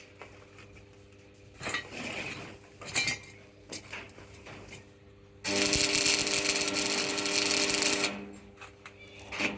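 A handheld power tool, such as a drill, runs steadily for about three seconds, after a few seconds of small knocks and clicks of handling tools and metal parts.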